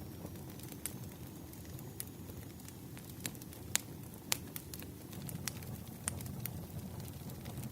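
Wood fire burning: a steady low rumble of flames with scattered sharp crackles and pops, the two loudest pops a little under four seconds in and just after.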